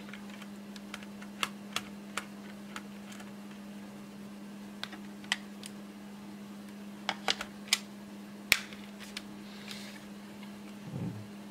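Irregular small clicks and taps of a screwdriver working screws on a laptop's plastic case, with a steady low hum underneath.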